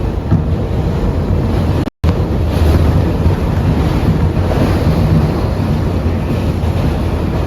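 R142A subway car running at speed between stations, heard from inside the car: a loud steady rumble of wheels on rail with a low hum. The sound cuts out completely for a split second about two seconds in.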